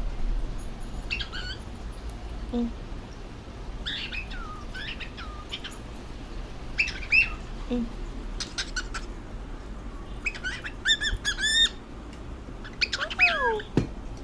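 Cockatiel calling in short chirps and squawks at intervals, with a quick run of rising chirps about eleven seconds in and a falling call near the end.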